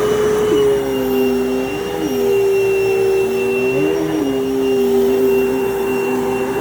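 Dirt Devil Total Vision upright vacuum cleaner running on carpet: a steady motor hum with a high whine, and a lower note in it that drops and climbs back several times as the load changes.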